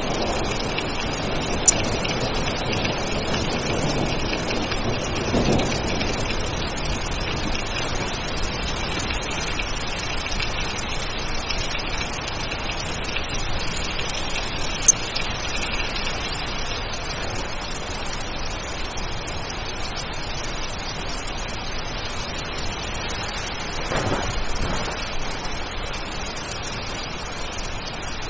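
Steady heavy rain, with low thunder rumbling a few seconds in and again near the end. Two sharp clicks cut through, one near the start and one about halfway.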